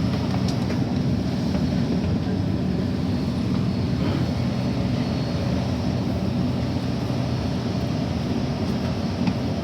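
Steady low hum of a C951A Downtown Line train standing at a station platform, with an even level and no clear knocks, chimes or changes in pitch.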